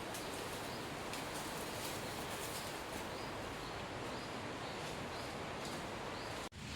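Steady heavy rain falling on forest vegetation, an even hiss that breaks off for an instant near the end.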